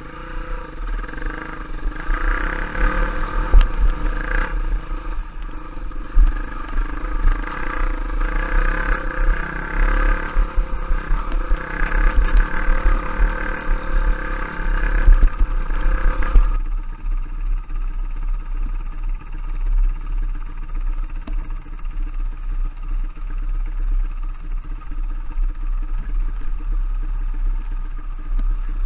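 Trail bike engine running on a dirt trail ride, a steady engine note with low buffeting rumble and scattered clatter. About sixteen seconds in, the sound changes abruptly to a lower, duller engine note.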